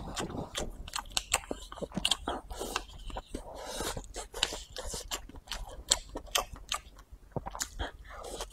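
A person chewing a mouthful of food close to the microphone: many short, irregular clicks and smacks from the mouth. Near the end another bite of leafy greens goes in.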